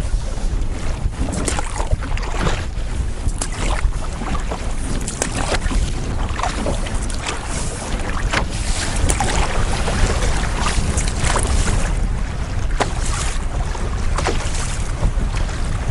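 Wind buffeting the microphone over water splashing and slapping against a canoe on choppy water, with irregular splashes throughout.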